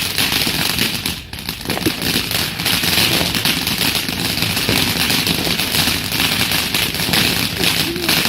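Fireworks crackling: a dense, continuous run of rapid small pops.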